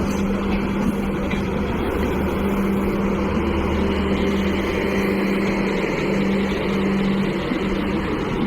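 A train hauled by a WAP-7 electric locomotive running: a steady rumble with a steady low hum that fades for a moment about halfway through and then returns.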